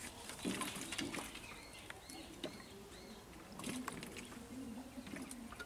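Birds calling: a quick run of four or five high, arched notes about two seconds in, and lower hooting notes later, with a few small clicks from handling.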